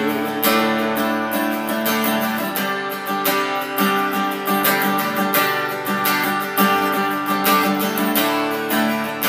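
Acoustic guitar strummed in a steady rhythm, chords ringing, as an instrumental break between sung lines.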